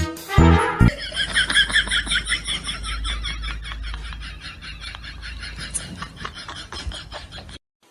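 A brief burst of jingly music, then an animal giving a rapid run of short, high-pitched chirping calls, several a second, that slowly fade over a low hum and cut off suddenly near the end.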